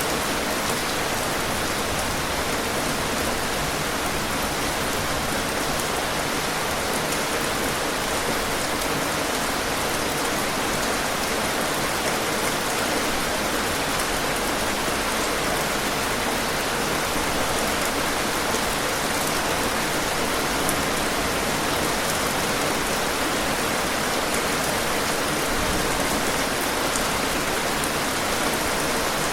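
Steady, heavy rainfall, a dense even patter of raindrops on surfaces with faint individual drop ticks.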